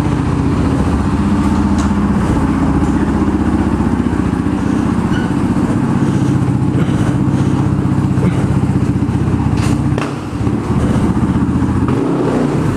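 Dirt bike engine running steadily at low revs, easing off briefly a couple of times near the end.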